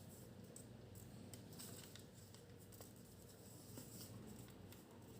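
Near silence, with a few faint, scattered rustles and clicks of origami paper being handled and creased by hand.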